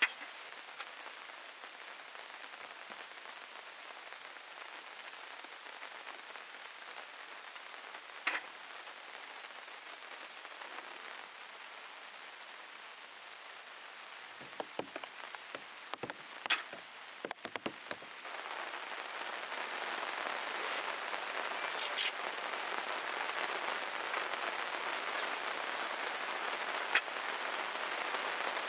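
Rain falling on a plastic sheet wrapped over the camera: a steady patter with scattered sharp drop hits that pop on the plastic. A cluster of knocks comes about halfway through, and the rain grows louder and denser in the last third.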